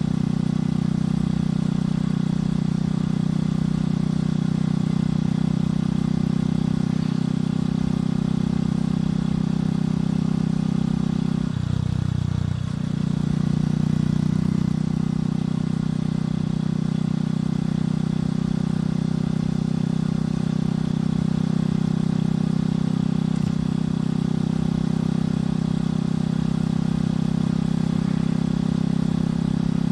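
Motorcycle engine and exhaust heard from on board while riding, running steadily at an even pitch. The sound dips briefly and shifts in pitch about twelve seconds in, then settles back to a steady note.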